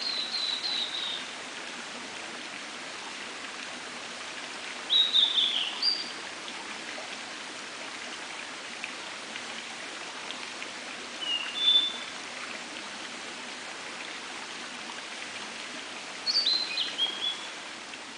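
Blue-and-white flycatcher singing: short phrases of sliding, warbled whistles, each about a second long, repeated four times a few seconds apart. A steady hiss runs beneath the song.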